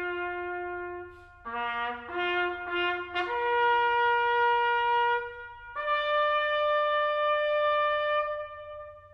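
Solo trumpet playing a slow bugle call: a held note, a quick run of short notes, then two long notes, each higher than the last, the final one fading out near the end.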